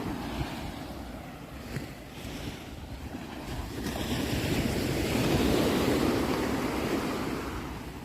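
Sea waves washing onto a shore, one wave swelling about halfway through and easing off near the end.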